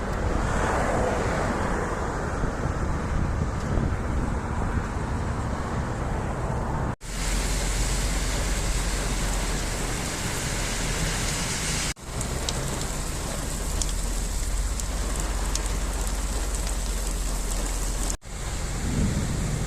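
Heavy rain and rushing floodwater, a steady noise heard in three shots cut together. In the later shots a strong low rumble of wind on the microphone lies under it.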